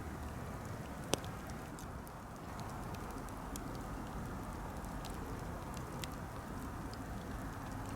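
Wood campfire burning with a steady low rush and scattered small crackles, and one sharp pop a little over a second in.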